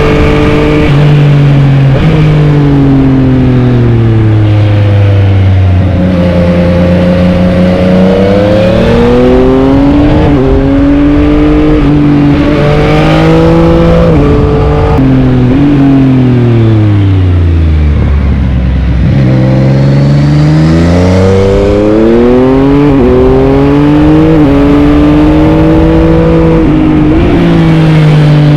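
Yamaha MT-09's 890 cc inline three-cylinder engine under hard riding, revs climbing through the gears with sudden drops at each upshift. About two-thirds through it slows to low revs, then accelerates again through the gears.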